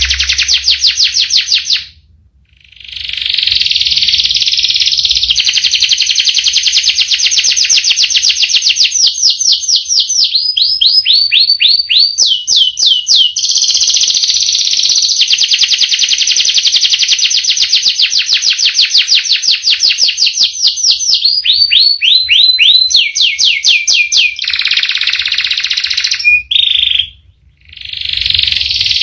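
Domestic canary singing long rolling trills of rapid, evenly repeated high notes, changing pitch from phrase to phrase. The song breaks off briefly twice, about two seconds in and near the end.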